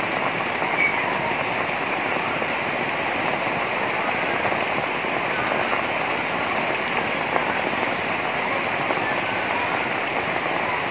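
Heavy rain pouring down onto the water of flooded backyard ponds and the concrete walkway around them: a dense, steady hiss that holds even throughout.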